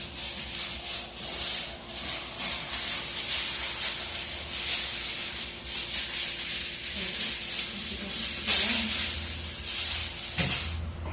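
Aluminium foil crinkling and rustling as it is handled and pressed around a pudding mold.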